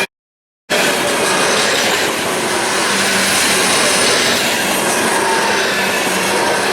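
Freight train cars rolling past on the rails: a steady loud rumble of wheels on track with faint high wheel squeal. The sound cuts out for about half a second just after the start, then resumes.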